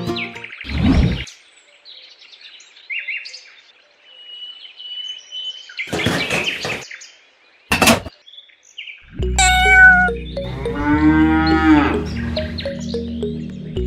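A cow moos once, for about a second and a half, near the end, over background music that comes in about two-thirds of the way through. Before it, a few short noisy bursts.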